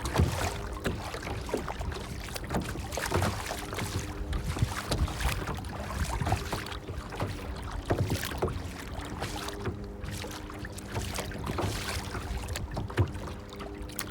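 Water lapping and splashing in many small irregular splashes over a low rumble, with a faint steady hum that comes and goes.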